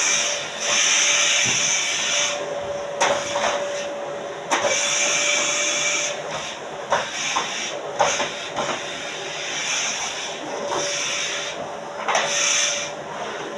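Neighbour's vacuum cleaner running, its hiss and motor tone swelling and fading every few seconds, with a few sharp clicks over it.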